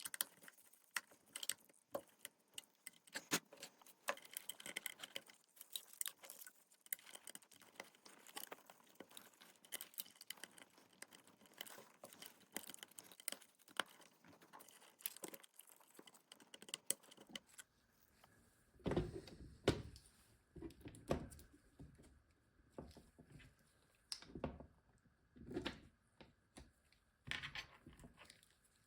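Faint scattered clicks and light taps. In the second half come louder, duller knocks and a faint steady high tone.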